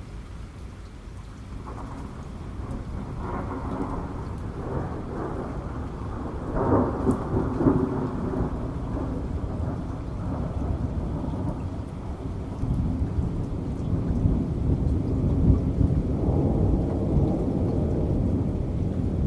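Thunder rumbling and rolling over steady rain. The rumble builds through the first seconds, peaks about a third of the way in, and swells again in the latter half, with raindrops ticking throughout.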